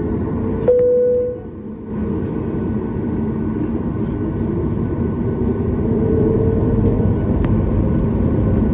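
Cabin noise inside a Boeing 737 MAX 8: a steady rumble of engines and airflow with a constant hum. About a second in there is a short, louder steady tone, and the noise grows slightly louder in the second half.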